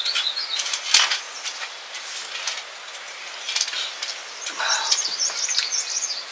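Small birds chirping in quick warbling phrases, at the start and again from about two-thirds of the way through, with a few scattered sharp knocks or clicks in between.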